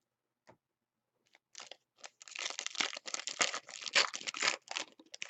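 Crinkly wrapper of a trading card pack being torn open and crumpled, a dense crackling starting about a second and a half in and lasting a few seconds.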